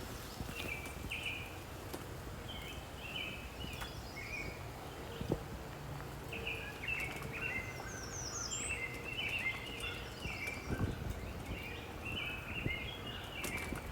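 Several songbirds singing in short chirping phrases, with a quick run of high notes about two-thirds of the way through, over a steady low rumble.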